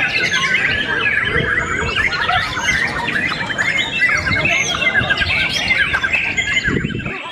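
Many caged songbirds singing at once, a dense overlapping chorus of fast chirps, trills and squawks as the contest birds compete.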